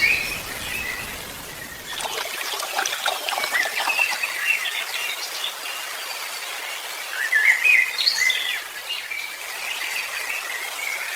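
Birds chirping and calling: many short, quick chirps and warbles that slide up and down in pitch over a light background hiss, busiest a few seconds in and again about eight seconds in.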